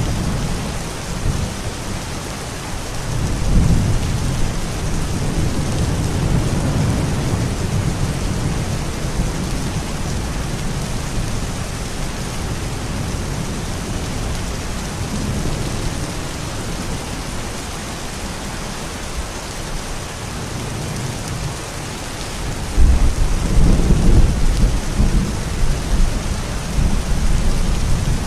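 Steady rain with rolling thunder. A low rumble swells a few seconds in, and a louder, longer rumble starts near the end.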